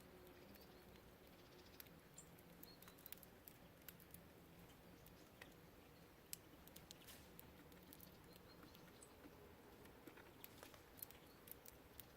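Small songbirds feeding at a bird feeder, very faint: scattered light clicks and taps, with a few brief faint high chirps.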